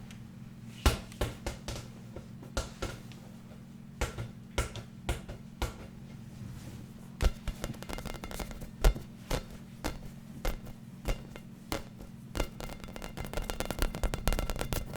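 ASMR tapping on a hard object: quick, irregular taps in short runs, coming thicker and faster near the end, over a steady low hum.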